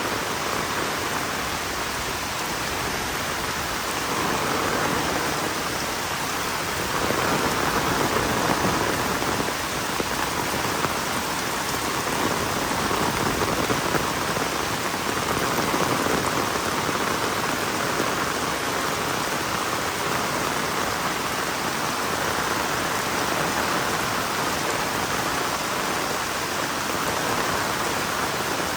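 Heavy rain falling steadily, a dense even hiss that swells and eases a little every few seconds.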